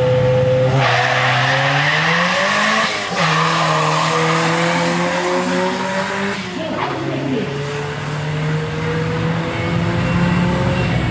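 Drag-racing compact pickup's engine held at steady revs on the start line, then launching hard about a second in with a loud rush of noise. The engine note climbs and breaks at a gear change about three seconds in, shifts again past halfway, then runs on more faintly as the car pulls away down the strip.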